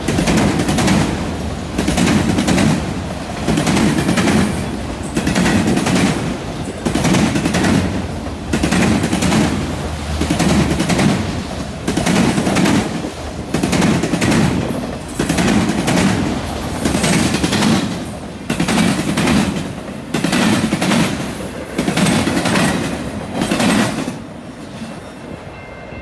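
Freight train's autorack cars rolling past at speed, their steel wheels clattering over the rail joints and a junction switch in a loud cluster of clicks about every two seconds as each pair of trucks crosses. The clatter drops away about 24 seconds in as the last car passes and the train recedes.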